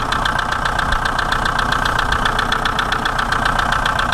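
Volkswagen 1Z 1.9 TDI four-cylinder turbodiesel idling with a steady clatter of even, rapid ticks; the owner calls it a bit tappety. It runs out through a makeshift exhaust fitted with dual catalytic converters that quiet it down a little.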